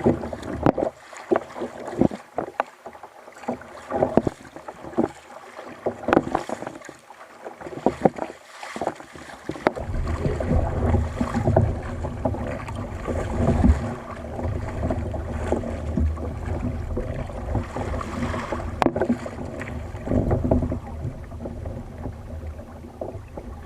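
Sounds of a fishing kayak on the sea: irregular sharp knocks and splashes for about the first ten seconds, then a steady low rumble alongside the water noise.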